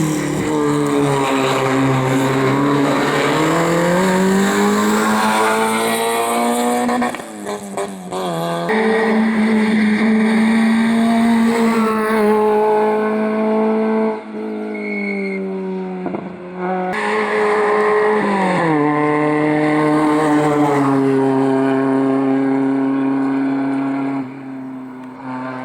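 Race car engine revving hard under acceleration, its pitch climbing and dropping with gear changes and lifts. The sound comes in several stretches that break off suddenly.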